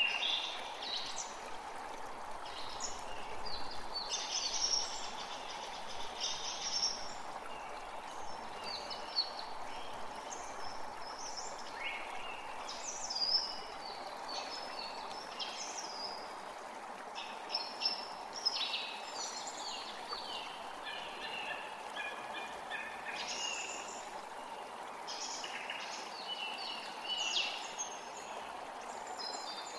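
Steady rushing of a forest creek, with several birds chirping and trilling over it, short calls coming every second or two.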